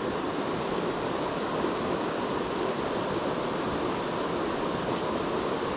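Mountain stream rushing over rocks: a steady, even noise of flowing water.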